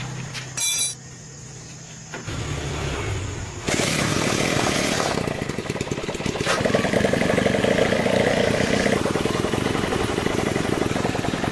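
An engine starting and then running steadily: a low rumble begins about two seconds in, it gets much louder near four seconds, and it settles into a steady fast-pulsing run.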